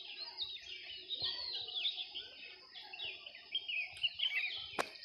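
Birds chirping continuously, many short high calls overlapping one another. One sharp click near the end.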